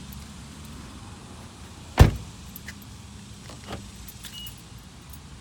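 A single loud thump inside a car about two seconds in, followed by a few faint clicks and a short, faint beep, over a low steady hum.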